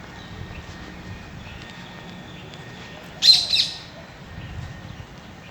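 Birds chirping with short, scattered high calls, and a sudden much louder harsh double call just over three seconds in.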